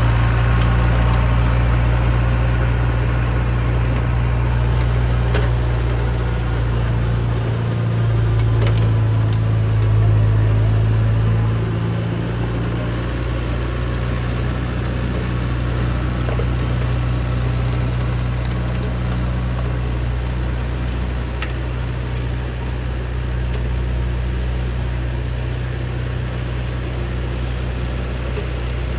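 Massey Ferguson 2630 F tractor's 65 hp four-cylinder diesel engine running steadily while working an 8-foot rotavator. It swells slightly about ten seconds in, then settles a little lower.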